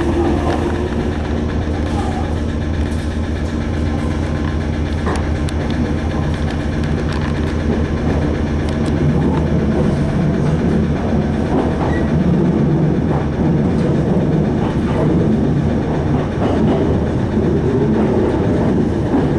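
Meitetsu electric train running, heard from on board: a steady rumble of wheels on rail with a low hum, turning rougher about halfway through, and a few clicks.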